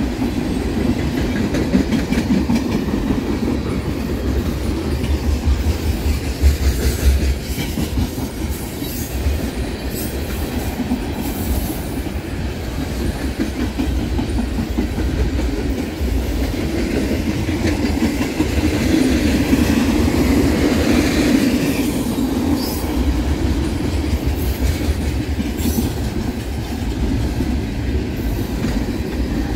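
Train rolling past at track level, a steady rumble of railcars with wheels clattering and clicking over the rails.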